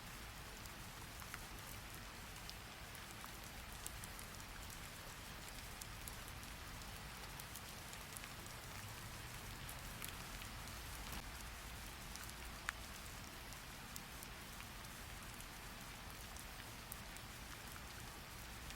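Steady rain falling: a soft, even hiss with scattered light ticks of drops, and one sharper click about two-thirds of the way through.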